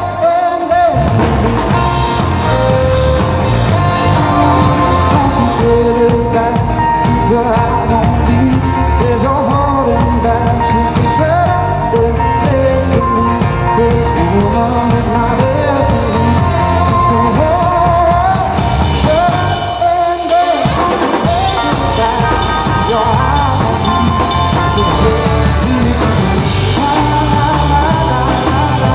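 Live band playing an upbeat rock-pop song, with drum kit and a melody line over it; the drums and bass drop out briefly about twenty seconds in, then come back.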